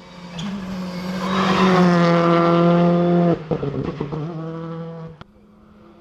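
Rally car engine at high revs as the car passes, building up, holding a steady high note, then cutting off abruptly about three and a half seconds in as the driver lifts or changes gear. The engine picks up again briefly, then a sharp click sounds near the end.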